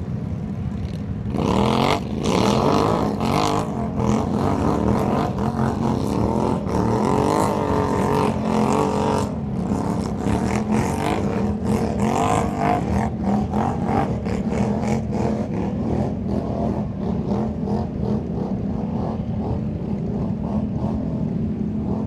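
Engines of ATVs and a pickup running hard under load, straining to drag a stuck truck and trailer through mud. The engines get louder about a second and a half in, with the pitch rising and falling for several seconds, then run on more steadily.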